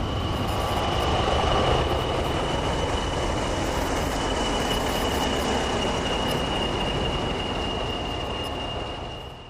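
Train running past with a steady rumble and a constant high-pitched whine throughout, fading near the end.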